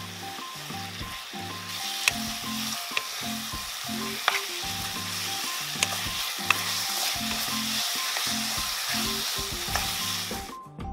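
Battered fried shrimp in ketchup chili sauce sizzling in a frying pan while being stirred with a wooden spatula. A few sharp clicks come from the spatula knocking the pan. The sizzle stops just before the end.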